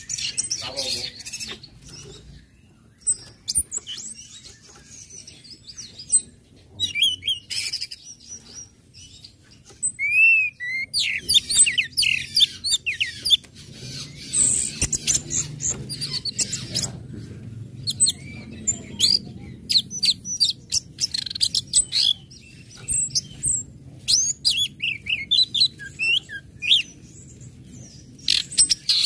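Orange-headed thrush calling and singing: irregular runs of short, high chirps and sharp ticking notes, broken by denser bursts of quick, varied song.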